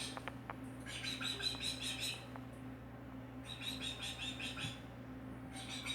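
Pet bird chirping in quick runs of rapid repeated high notes, three bursts of about a second each, played back from a video through a device speaker.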